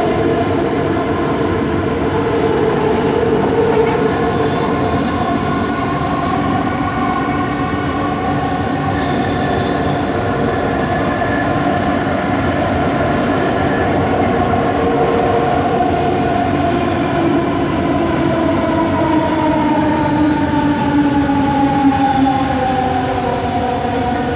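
Bombardier Innovia ART 200 metro train running, its linear induction motor giving an unusual whine of several tones over steady wheel-and-rail rumble. The tones hold fairly level, then fall in pitch over the last several seconds.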